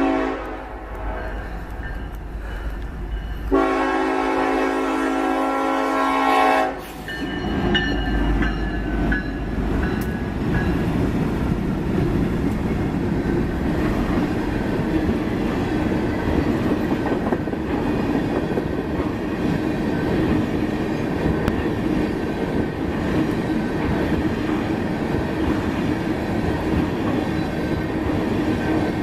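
Diesel freight locomotive horn sounding at a grade crossing: a blast at the start, then a longer, louder one from about three and a half seconds in that cuts off sharply near the seven-second mark. The train then rolls past close by, a steady rumble and clatter of wheels and cars.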